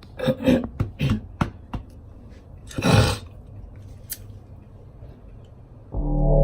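A quick run of short clicks and snaps, a brief hiss about three seconds in and a single click a second later, then background music comes in near the end.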